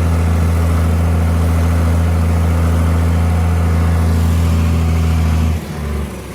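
Old John Deere diesel tractor engine running steadily under throttle, then throttled back and dropping to a lower, quieter idle about five and a half seconds in.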